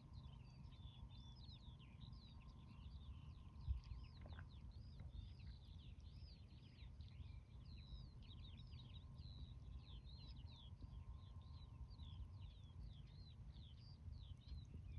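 Many small birds singing together in a steady stream of quick chirps and twitters, faint over a low steady rumble. A brief low thump sounds a little under four seconds in.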